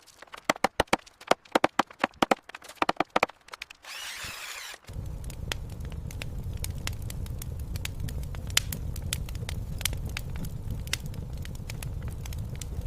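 A quick, irregular run of sharp knocks and taps, a brief hiss, then a steady low rumble with scattered sharp crackles.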